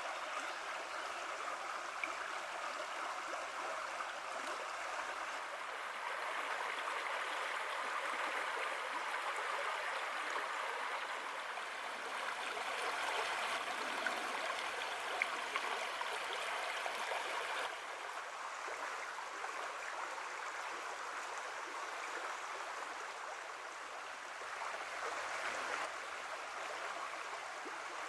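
Creek water flowing with a steady babble, with a slight shift in tone about two-thirds of the way through.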